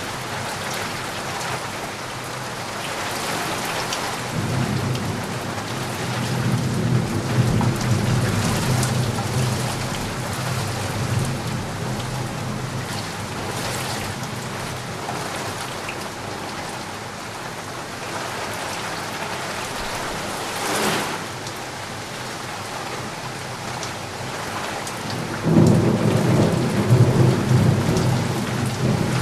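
Steady rain falling, with low rolling thunder that rumbles in about four seconds in, fades, and rolls in again more strongly near the end.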